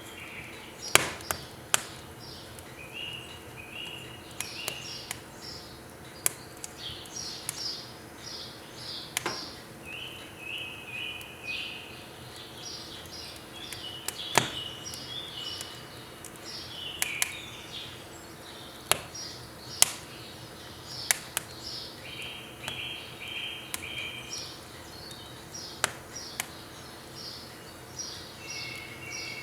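Firewood crackling as it burns in a wood stove, with sharp, irregular pops every second or two, over birds chirping in repeated short phrases.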